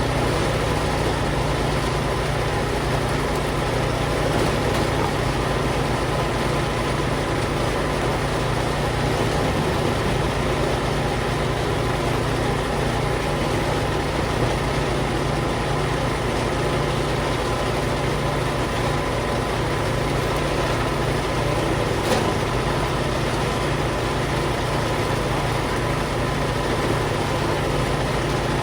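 An engine running steadily at an even speed, with one short sharp knock about three-quarters of the way through.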